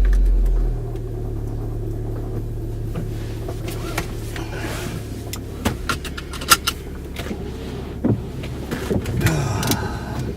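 Car engine running steadily, heard from inside the cabin: a louder low rumble for the first second settles into an even low hum. A few sharp clicks and knocks come in the second half.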